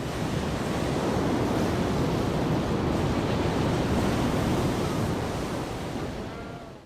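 Ocean waves surging, a steady rushing wash of surf that fades away near the end.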